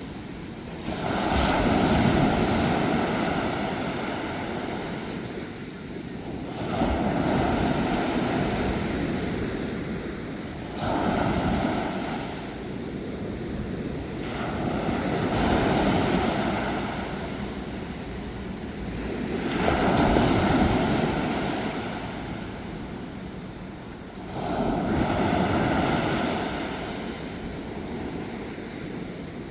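Sea waves washing onto a shore, swelling and falling back about every four to five seconds, six surges in all.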